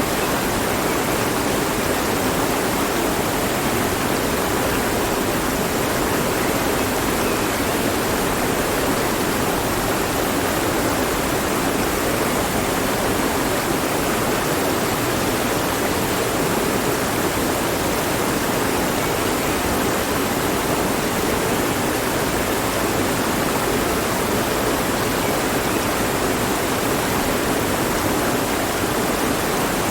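Mountain stream running steadily over rocks, an even rushing of water with no breaks.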